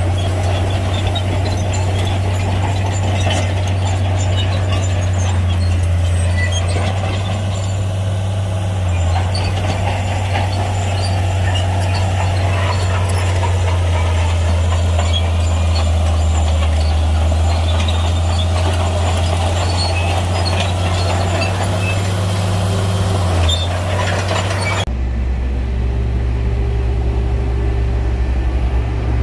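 Heavy bulldozer's diesel engine running steadily under a loud low hum, with scattered clicks and rattles over it. About 25 seconds in the sound changes suddenly to a deeper, smoother engine hum without the clatter.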